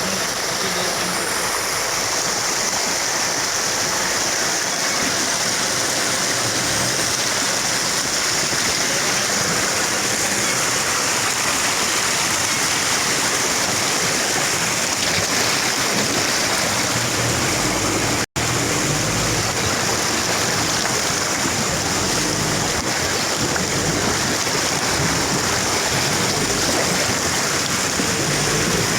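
Waterfall and stream water rushing steadily, with a momentary break in the sound about eighteen seconds in.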